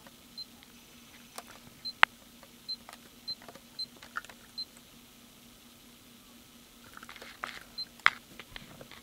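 A car navigation unit's short high-pitched confirmation beeps, about seven of them spread unevenly, as buttons on the screen are pressed. Soft taps and clicks come with them, and two sharp clicks about 2 s and 8 s in are the loudest sounds.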